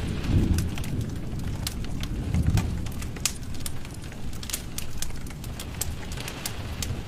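Wood fire burning in a fireplace: a low rumble of flames with frequent sharp, irregular crackles and pops, swelling a little twice.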